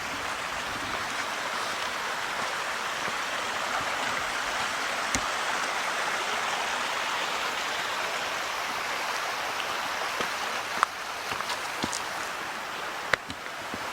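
A small stream rushing steadily, with a few light clicks near the end.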